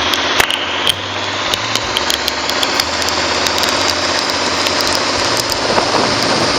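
Heavy rain pelting down over the steady running of a boat motor, with many sharp taps of drops striking close by.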